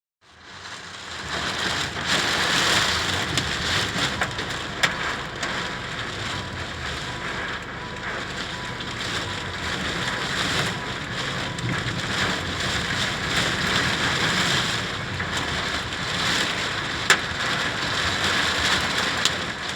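Heavy rain falling in a summer storm, a dense steady hiss that fades in over the first couple of seconds. Two sharp taps stand out, about five seconds in and near the end.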